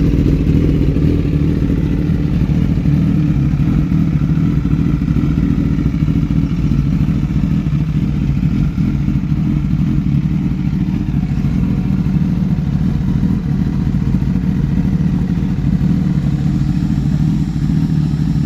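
Suzuki GSX-S1000's inline-four engine idling steadily through an M4 Performance aftermarket exhaust, loud and even with no revs.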